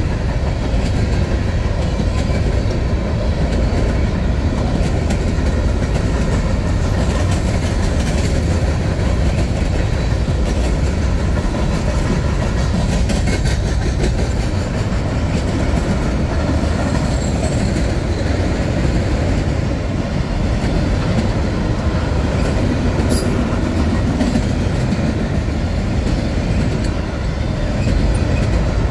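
Freight train cars rolling past on the track, covered hoppers and then auto racks, with a steady, loud rumble of steel wheels on rail.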